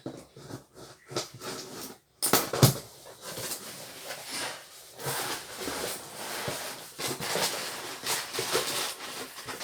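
Parcel packaging being opened and handled: a sudden loud tear about two seconds in, then continuous rustling and crinkling of the wrapping.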